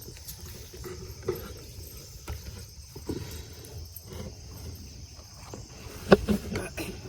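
Chickens clucking faintly, with low handling noise and a couple of knocks about six seconds in.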